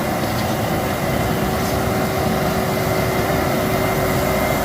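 Excavator running steadily while loading a dump truck: an even mechanical drone with a steady whine held throughout.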